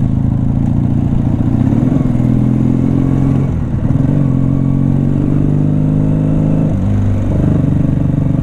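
Air-cooled motorcycle engine, about forty years old, running at low road speed. Its pitch holds steady, dips and climbs again about three and a half seconds in, and drops briefly near seven seconds as the throttle changes.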